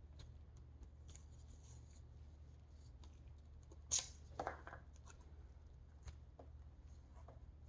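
Faint handling of masking tape on a small part, pressed down and trimmed: light ticks, a sharp click about four seconds in followed by a brief rustle, over a low steady hum.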